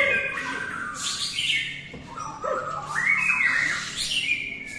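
White-rumped shamas (murai batu) singing in a contest: fast, varied phrases of repeated notes and whistled glides that overlap.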